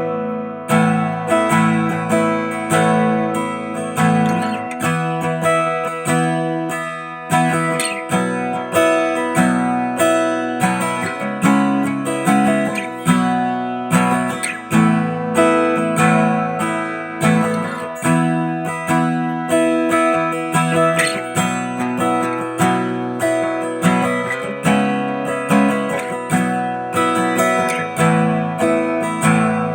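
Background music: acoustic guitar strumming and picking chords at a steady pulse.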